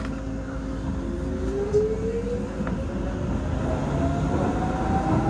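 Docklands Light Railway train accelerating away from a station, heard from inside the car: a motor whine rising steadily in pitch over the rumble of wheels on rails.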